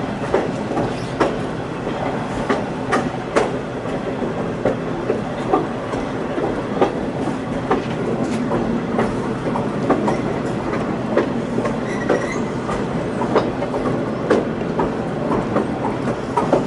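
Riding aboard a diesel-hauled excursion train as it rolls along the line: a steady rumble with irregular clicks and knocks of the wheels over the rail joints. A short high squeal comes about twelve seconds in.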